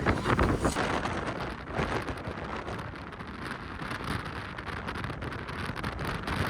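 Strong gusting wind buffeting the microphone, with a loud gust right at the start.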